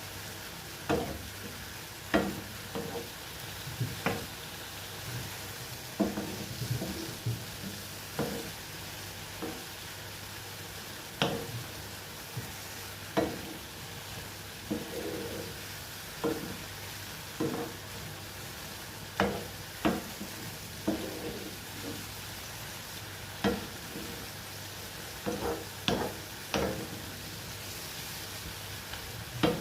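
Mushrooms frying in oil in a pan with a steady faint sizzle. A utensil stirs them, knocking and scraping against the pan every second or two.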